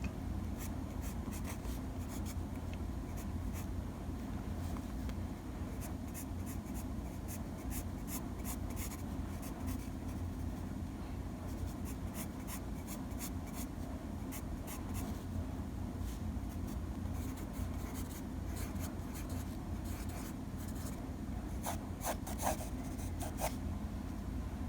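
Drawing strokes: a pen or pencil-like tool scratching and tapping in short, irregular strokes, busiest near the end, over a steady low hum.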